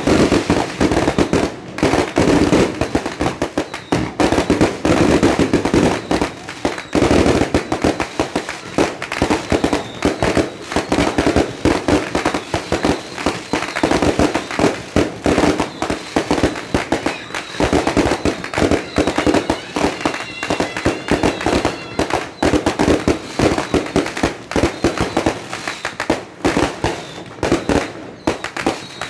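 Fireworks going off in a dense, continuous barrage of rapid pops and bangs with no pause.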